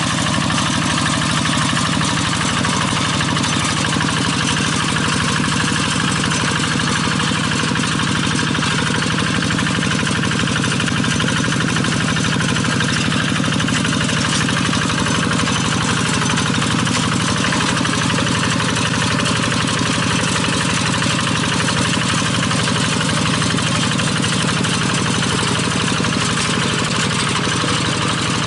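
Single-cylinder diesel engine of a walking rice-field tractor running steadily at an even speed.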